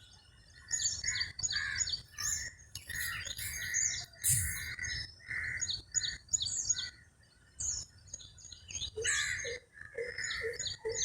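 Several small birds chirping and calling, with many short, high notes overlapping. From about nine seconds in, a lower note repeats several times. There is a brief low bump around four seconds in.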